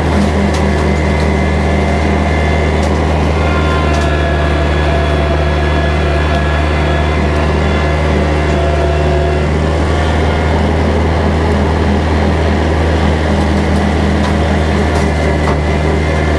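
Kubota tractor engine running steadily while driving a bush hog rotary cutter, a loud, even, deep drone with no change in pace.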